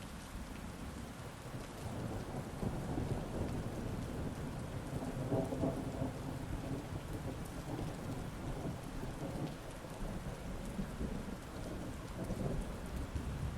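Heavy, steady rain with a long rolling thunder rumble that builds a couple of seconds in, peaks about halfway through and keeps grumbling on.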